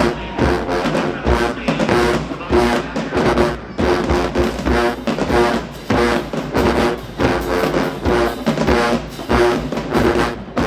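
HBCU show-style marching band playing in the stands: a driving drum and bass-drum beat under short, rhythmic brass hits.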